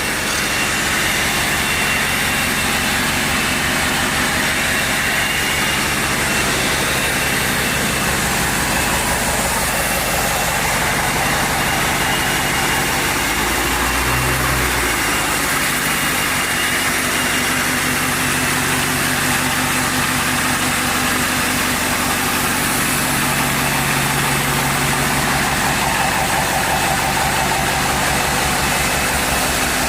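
Dodge Challenger engine running steadily through a new aftermarket exhaust, a constant low rumble, with a brief shift in the note about 14 seconds in.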